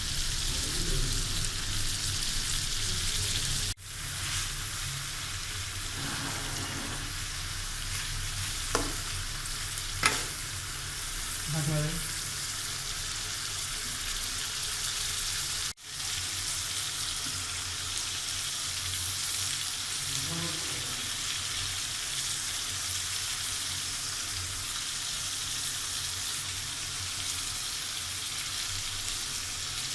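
Chicken curry frying and sizzling steadily in hot oil in a pan as it is stirred, with two sharp clinks of a utensil against the pan about nine and ten seconds in. The sizzle drops out for an instant twice.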